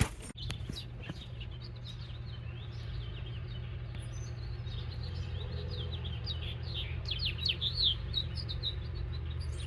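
Small birds chirping: a run of short, high chirps that comes thicker and faster in the second half, over a steady low background rumble.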